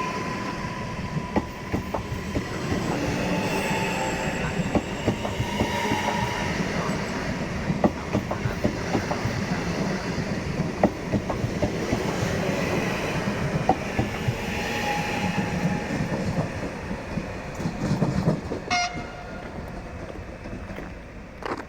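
Freight train rolling through a station, its wagons' wheels clicking over the rail joints, with high tones coming and going over the rumble. The noise dies down near the end as the train passes.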